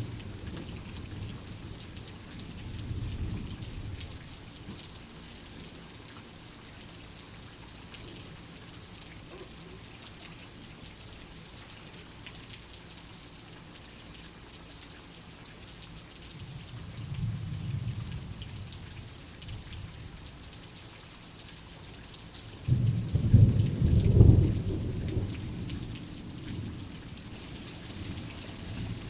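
Steady rain with rolling thunder: a soft rumble near the start, another just past halfway, and a louder peal that breaks in suddenly about three-quarters through and rumbles away over a few seconds.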